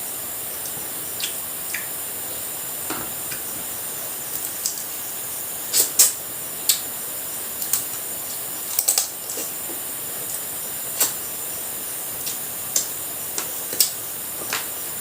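Close-miked eating sounds of someone eating crab: scattered mouth clicks, smacks and small cracks, the loudest a quick pair about six seconds in, over a steady background hiss.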